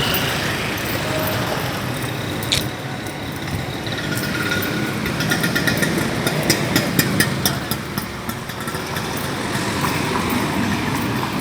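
City street traffic, with motor vehicles such as motorcycles and cars running past. A sharp click comes about two and a half seconds in, and a run of quick clicks comes from about five to seven and a half seconds.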